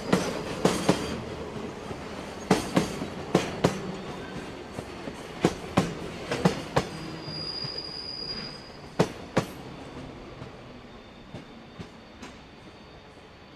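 Freight train wagons rolling past, their wheels clacking over rail joints in sharp, often paired clicks that thin out and fade as the train draws away. A brief high wheel squeal comes partway through.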